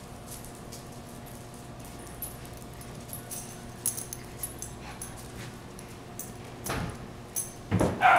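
Puppies playing, with scattered short clicks and small dog sounds, and a louder pitched dog sound near the end. A steady low hum runs underneath.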